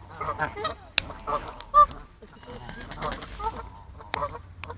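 Geese honking, many short calls overlapping, with a few sharp clicks.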